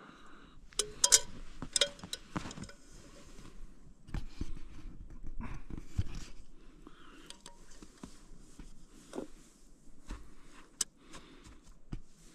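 Scattered light clicks and knocks with faint rustling, like small objects being handled.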